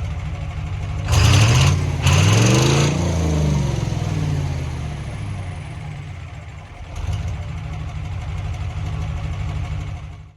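Cummins diesel engine of a dump truck on its new exhaust, blipped hard twice about a second in, then sliding back down to a steady idle; it picks up a little again about seven seconds in.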